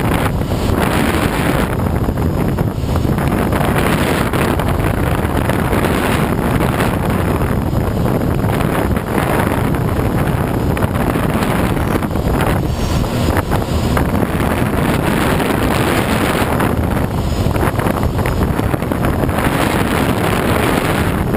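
Steady rush of air over a Schweizer SGS 2-33A glider's cockpit in flight, with wind buffeting the microphone.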